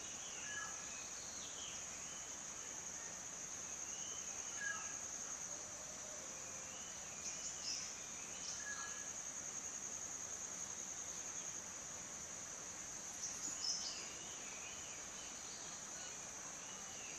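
A steady high-pitched insect drone, typical of crickets, with short bird calls over it, among them a brief note repeated about every four seconds.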